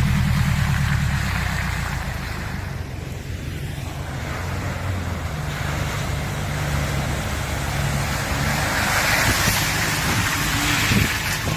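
An off-road vehicle's engine running at low revs, its pitch shifting slightly partway through, under a steady rushing noise that grows louder near the end.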